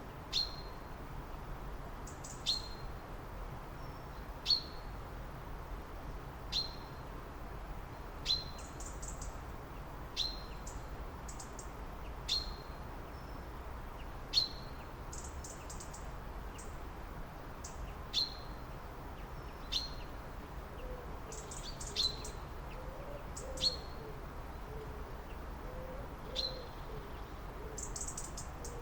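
Wild birds calling: one bird gives a short, sharp call about every two seconds while others add quick, higher chirps in between, over a steady background hiss. A fainter, lower warbling joins in the last third.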